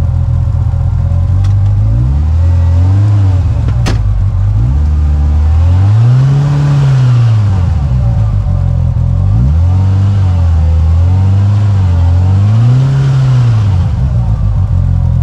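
Side-by-side UTV engine revving up and down in several long swells while it pushes through deep mud.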